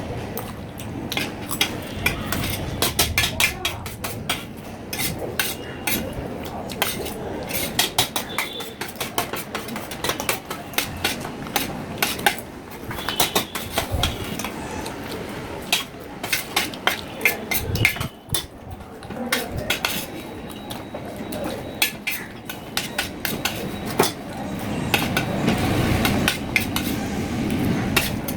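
Cutlery clinking and scraping against plates in many quick, irregular clicks while eating chowmein, a little fuller and louder near the end.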